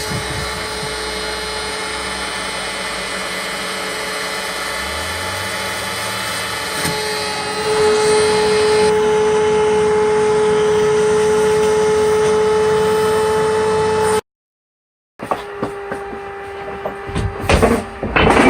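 Electric motor running with a steady whine. A lower hum joins about five seconds in, and the whine gets louder near eight seconds in before cutting off abruptly. After a brief silence come a few knocks and clatters near the end.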